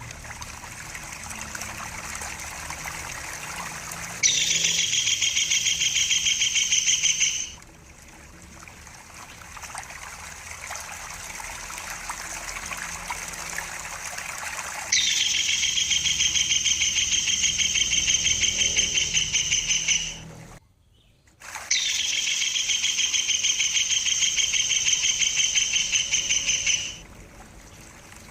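Tengkek buto kingfisher giving a long, fast, rattling trill three times, each lasting about three to five seconds, over steadily trickling water.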